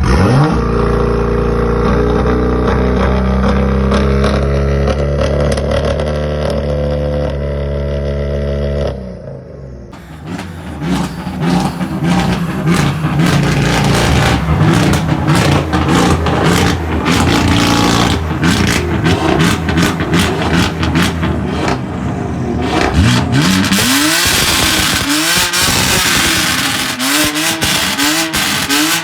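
BMW M car exhaust: a steady drone for the first nine seconds or so, then a stretch of dense crackling and popping, then repeated quick rev blips near the end.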